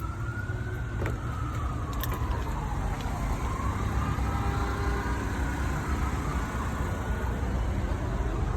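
An emergency-vehicle siren wailing, its pitch slowly rising and falling about every four seconds, over a steady low engine rumble. A couple of sharp clicks come about one and two seconds in.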